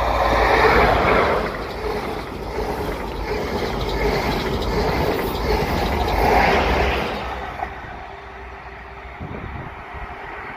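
InterCity 125 high-speed diesel train passing close by at speed. The leading Class 43 power car's engine and wheel noise come in loud at once, the carriages rush past, a second peak comes about six seconds in as the rear power car goes by, and the sound then fades as the train draws away.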